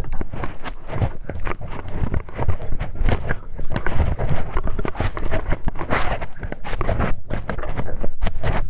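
Close-miked ASMR ear-cleaning sounds: a hex key working inside a dummy-head ear microphone, giving dense crackly scraping and rubbing with many small clicks and soft low thumps.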